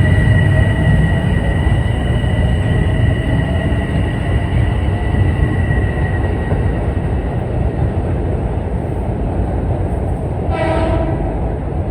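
Commuter train passing close by with a loud, steady rumble and a high whine that fades out partway through; a short train horn blast sounds near the end.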